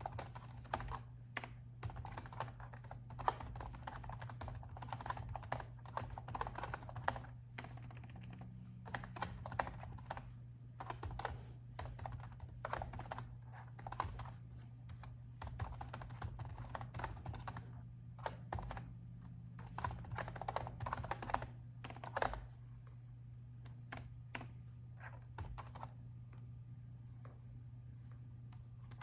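Typing on a laptop keyboard: quick runs of key clicks broken by short pauses, thinning to a few scattered keystrokes after about 22 seconds. A steady low hum sits underneath.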